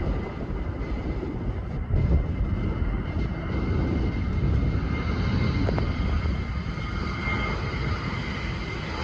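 Airplane engines running: a steady high whine that grows louder through the second half, over a low rumble.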